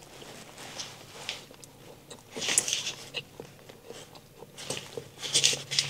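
Biting into and chewing a crispy fried flounder fish sandwich: crunchy, crackly chewing in two clusters, about two seconds in and again near the end.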